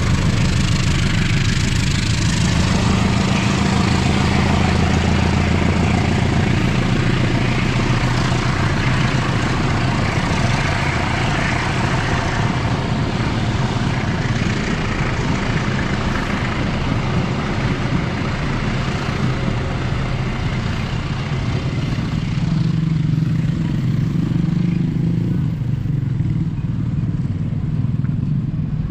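Indonesian diesel passenger train passing close by: a steady engine hum under the continuous rumble and clatter of wheels on the rails.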